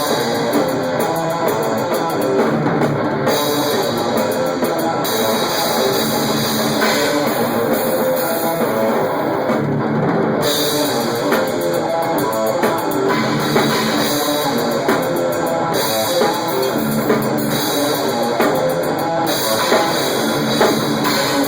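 Rock band rehearsing: electric guitar and a drum kit playing loud and continuously, picked up raw by a phone's built-in microphone close to the drums.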